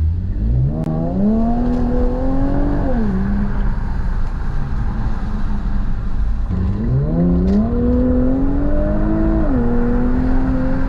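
Infiniti Q50 Red Sport 400's twin-turbo V6 accelerating through a Motordyne cat-back exhaust and AMS lower downpipes. The engine note climbs in pitch twice, each time dropping sharply at an upshift before holding steady, over a constant low rumble.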